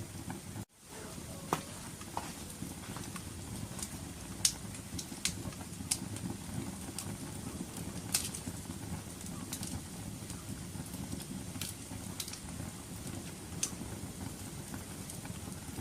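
Wood fire in a fireplace crackling: irregular sharp pops and snaps over a low, steady rush of burning. The sound cuts out for an instant under a second in.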